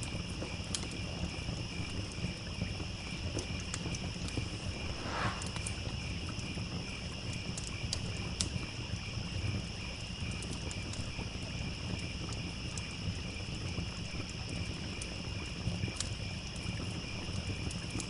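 Campfire crackling with scattered sharp pops, over a steady chorus of crickets chirping and the low rushing of a stream.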